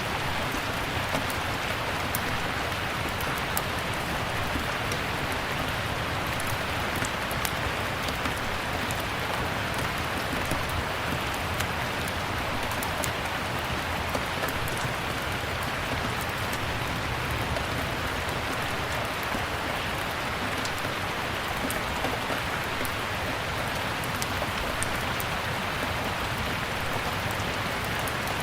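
Steady rain falling, with scattered small crackles and pops of a wood fire burning in a fireplace.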